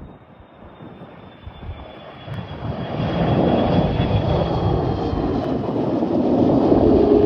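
Airbus A330 jet airliner on final approach, its engines rumbling with a high whine that slowly falls in pitch; the noise swells over the first few seconds and is loudest near the end as the aircraft comes close overhead.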